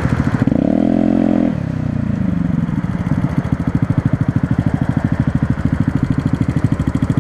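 Small single-cylinder motorcycle engine, a Honda Grom's 125 cc four-stroke, rising in pitch briefly about a second in, then settling into a steady, evenly pulsing idle as the bike rolls slowly.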